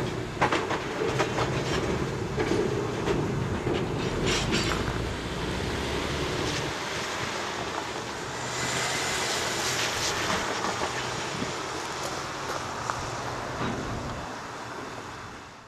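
Freight cars rolling along the track, the wheels clicking over rail joints among steady rolling noise. The sound fades near the end as the last car draws away.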